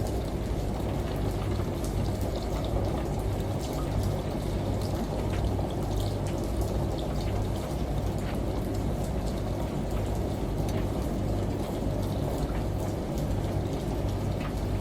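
Layered ambient mix of running water, shower spray and rain, with scattered drip-like ticks. Under it runs a steady low hum that swells and dips at an even pace, fitting a washing machine running.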